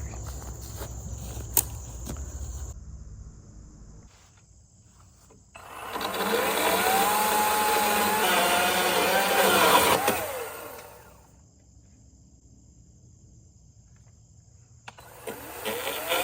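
Cordless power tool motor spinning up to a steady whine about five seconds in. Its pitch wavers under load for about five seconds, then winds down. It starts up again, rising in pitch, near the end. Crickets chirp faintly at the start.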